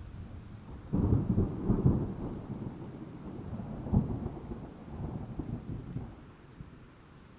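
Thunder over steady rain: a rumble breaks in suddenly about a second in, crackles, gives one sharper crack about four seconds in, then rolls away and fades near the end.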